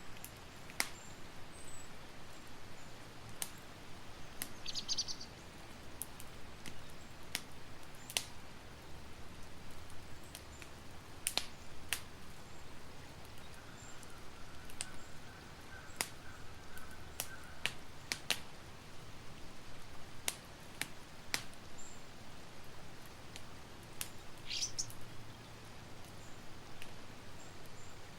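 Campfire crackling: irregular sharp pops and snaps over a low, steady rumble of burning wood. Twice, a short bird chirp sounds in the background.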